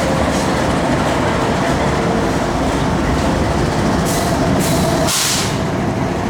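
Freight train of grain hopper cars rolling past, a steady loud rumble of steel wheels on rail with faint ringing tones. A short rushing hiss rises about four seconds in and fades after about a second and a half.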